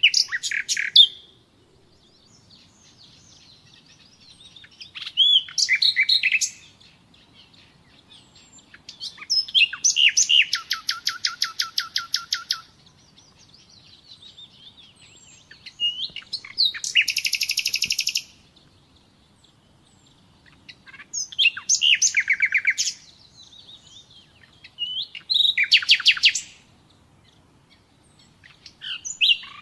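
Common nightingale singing in separate phrases about every four seconds, each a second or so long. Some phrases are rapid runs of repeated notes, one of them lasting about three seconds.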